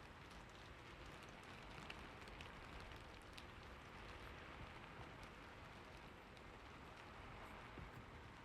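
Faint, steady rain: an even hiss with scattered small ticks of drops.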